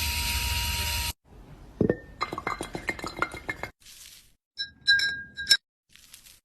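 A steady loud noise with a hum cuts off about a second in. Then glass clinks: a knock, a quick run of rattling clinks, and a few sharp ringing clinks near the end.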